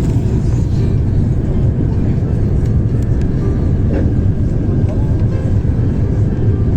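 Steady cabin noise inside an Airbus A350-1000 on approach: a loud, even low rumble of airflow and its Rolls-Royce Trent XWB engines, heard from a window seat.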